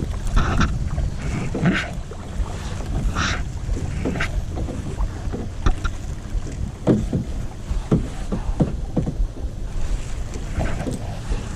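Kayak paddle strokes, the blades dipping and splashing in the water in short irregular bursts about once a second, over a steady low rumble of wind on the microphone.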